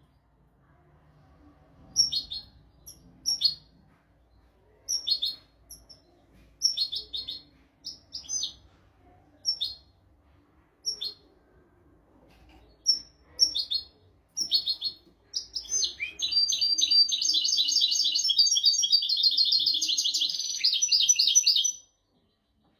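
European goldfinch singing a 'royal' (malki) style tutor song. Separate short chirps and twittering phrases come every second or two, then a long unbroken run of rapid trills near the end that stops suddenly.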